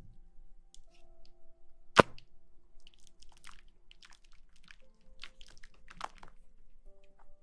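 ASMR trigger sounds: scattered soft crackles and rustles, with one sharp click about two seconds in, over faint held background music tones.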